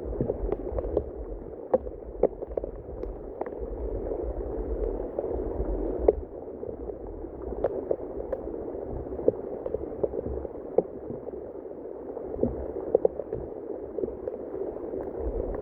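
Rushing water of a rain-swollen waterfall and stream, a steady wash with many small sharp splashes and ticks scattered through it.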